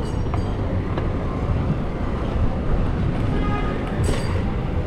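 City street traffic with a steady low rumble of wind on the microphone while cycling, and a brief high squeal about three and a half seconds in.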